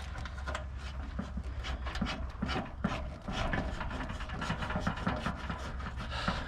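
Irregular light knocks, clicks and rubbing from hands working with metal parts and tools, over a steady low hum.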